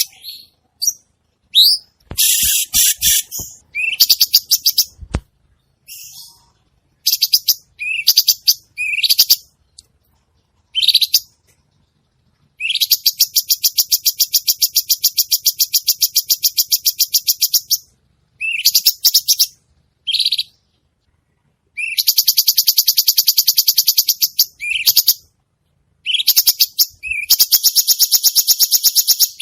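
A cucak cungkok songbird singing loudly and busily: short rising call notes mixed with long, fast, rattling trilled phrases, the longest running about five seconds in the middle. A few faint knocks come early on beneath the song.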